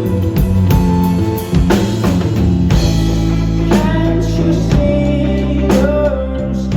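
Rock band playing live: guitars and drum kit, with a voice singing the melody from about three seconds in.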